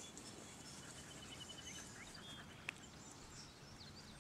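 Quiet outdoor background with faint, distant bird chirps, including a quick high trill in the first half. A single sharp click about two and a half seconds in.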